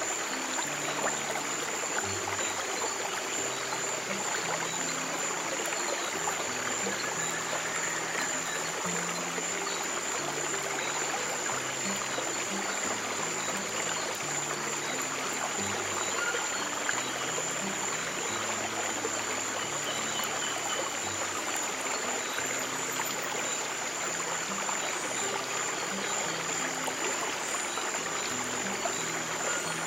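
Flowing stream water, an even rushing trickle, with soft, slow low piano notes underneath and a steady high tone above it.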